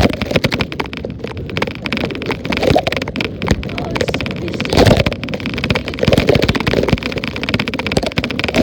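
Wind buffeting and rattling on an iPad taped to bicycle handlebars while riding, a dense uneven rumble broken by many small knocks from the road.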